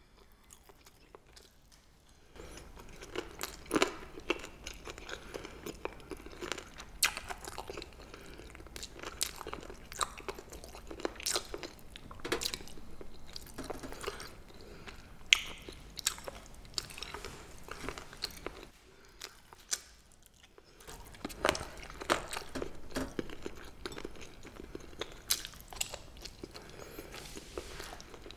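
A person chewing crisp pa-ganghoe (rolled blanched Welsh onion) close to the microphone: crunchy bites and moist chewing with many sharp crisp crackles. It starts about two seconds in and pauses briefly about two-thirds of the way through.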